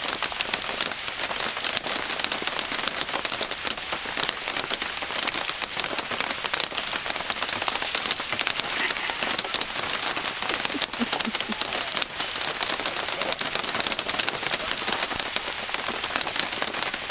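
Heavy rain falling steadily on a tent canopy and umbrellas, a dense hiss of countless drop hits.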